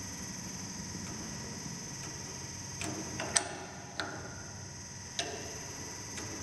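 Steady mechanical hum with a thin high whine, and a few sharp clicks and taps, the loudest about three and a half seconds in.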